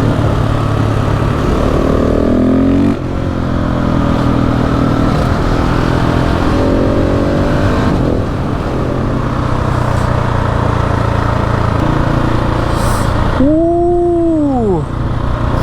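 KTM 690 SMC R's single-cylinder engine under way, over a hiss of rushing air: it pulls up in pitch, shifts about three seconds in, pulls up again and then runs steadily. Near the end the air hiss drops away and the engine gives one throttle blip, rising and falling.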